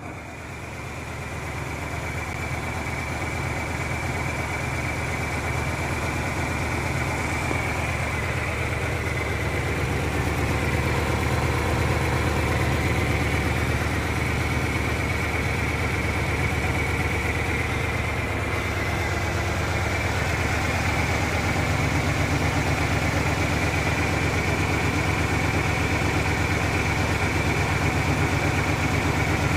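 1997 Ford Ranger engine idling roughly, the rough idle still there after a new fuel pump was fitted; it grows louder over the first several seconds, then stays steady.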